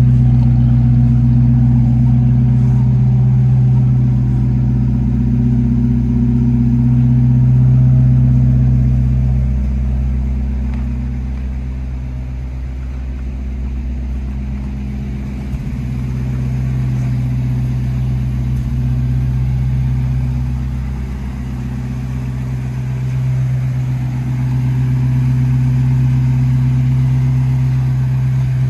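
1948 Buick Super's straight-eight engine idling steadily, growing quieter for a while and then louder again as the microphone moves around the car.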